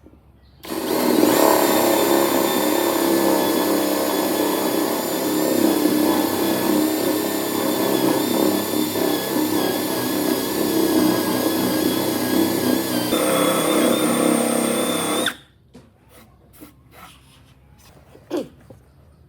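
An electric power tool running with a steady motor whine. It starts suddenly about a second in, shifts slightly in pitch near the end of the run and cuts off sharply, leaving a few light knocks.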